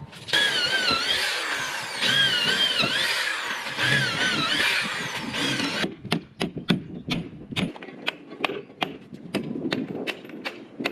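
A power tool runs for about six seconds, its motor whine wavering up and down in pitch as it works, then stops. A run of sharp, irregular knocks and clicks follows.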